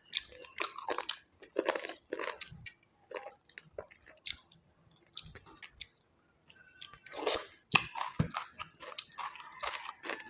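Close-miked chewing and crunching of crisp food in a mouth, in bouts of short, sharp crackles, with a pause of about two seconds near the middle.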